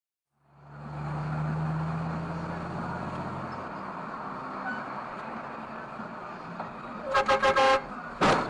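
Steady vehicle road and engine noise heard from inside a car, then a car horn honked in a quick run of about five short toots about seven seconds in, with another louder burst near the end.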